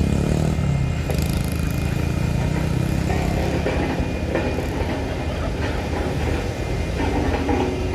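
A heavy vehicle's engine running steadily, low and continuous, with road traffic noise around it.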